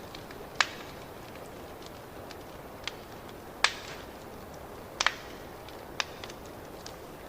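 Wood fire crackling in a fireplace: a steady low hiss with many small ticks and a few sharp pops, the loudest about half a second in, midway, and a pair around five seconds in.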